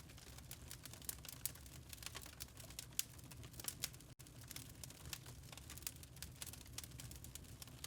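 Wood fire crackling in a fireplace: irregular sharp snaps and pops over a low, steady rumble, the loudest pop about three seconds in. The sound drops out for an instant about four seconds in.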